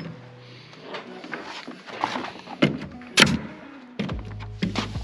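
A pneumatic nail gun fires several sharp shots, nailing roof sheathing, over background music.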